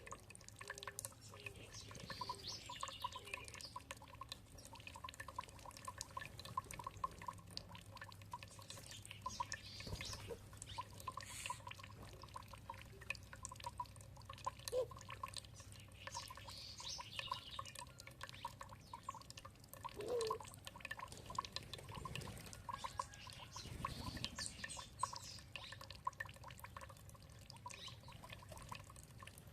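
Water dripping and trickling in many small, quick drops, with a few faint bird calls now and then.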